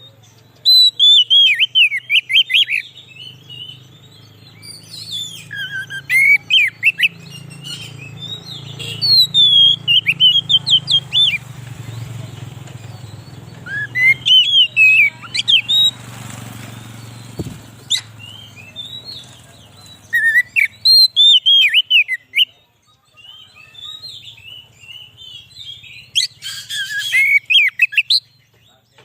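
Oriental magpie-robin (kacer) singing: loud bouts of fast, varied whistled notes that swoop up and down, broken by short pauses, used as a lure call.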